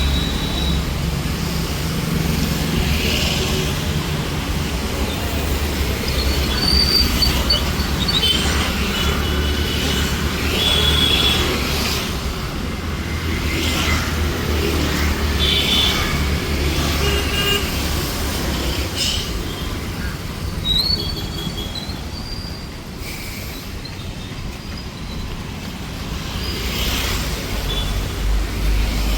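Busy street traffic running steadily, with vehicle horns honking in short blasts many times from different vehicles.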